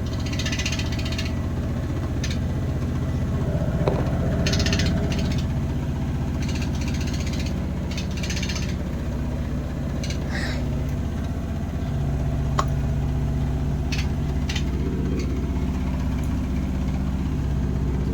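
Bosch washing machine spinning at 1000 RPM: a steady low hum with intermittent rattling and a couple of sharp knocks, about 4 and 12.5 seconds in. The bad noise comes from the machine running unbalanced, which the owner puts down to its stand needing adjustment.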